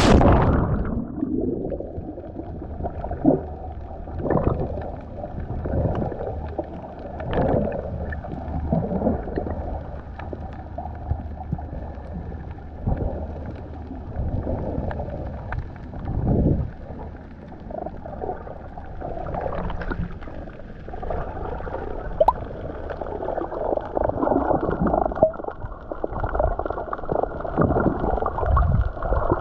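Underwater sound picked up by a GoPro in its waterproof housing: muffled, low gurgling and bubbling of water that swells and fades unevenly, with a few faint ticks.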